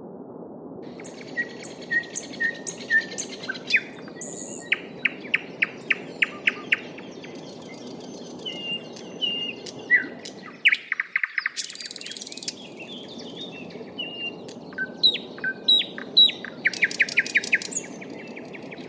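Several songbirds singing: repeated chirps and quick trills that start about a second in and stop just before the end. Under them runs the steady low babble of a stream, which dips out briefly around the middle.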